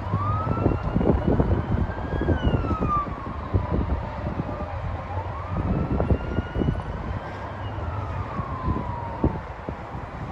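A distant emergency-vehicle siren wailing in two slow rise-and-fall cycles, over strong gusty wind buffeting the microphone.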